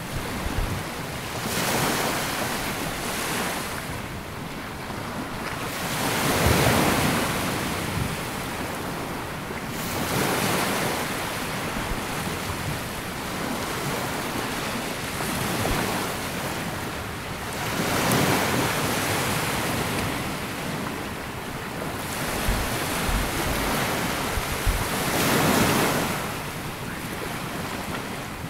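Small sea waves breaking and washing up a sandy beach, each swell rising and falling every few seconds, with wind buffeting the microphone.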